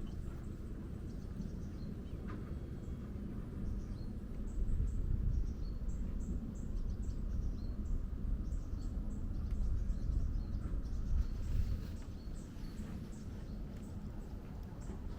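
Tropical forest ambience: many short, high chirps from small animals over a low rumble that swells through the middle and eases off near the end.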